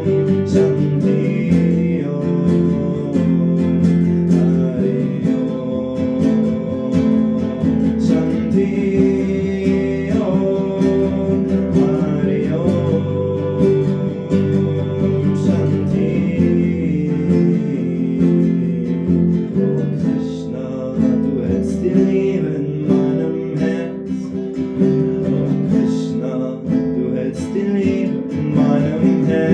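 Acoustic guitar playing, chords picked and strummed.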